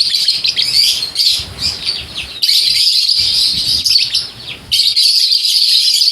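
Many caged lovebirds chattering and chirping at once in a dense, continuous din, dropping briefly about four seconds in before resuming.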